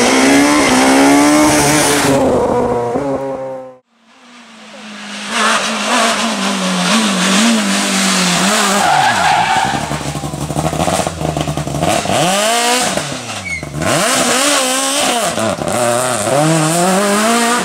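Rally cars at full throttle on a special stage. The first car's engine climbs in pitch through a gear, then the sound cuts out about four seconds in. After that a second car's engine fades in and revs up and down, dropping sharply twice in the middle as the driver lifts and changes down, then climbing again near the end.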